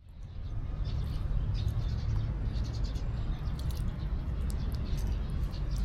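Many short, high animal calls scattered over a steady low rumble, fading in over the first half second.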